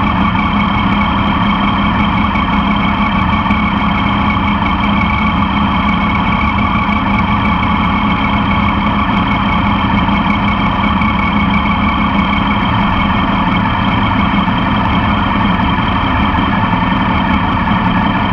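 Motorcycle engine running steadily at an even pitch, heard close up from the passenger foot peg, with no revving or gear changes.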